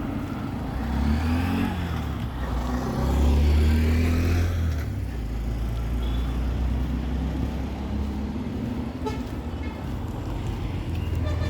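Street traffic: a motor vehicle passes close by, its engine rumble rising to its loudest a few seconds in and dropping in pitch as it goes past, with more traffic running on after it.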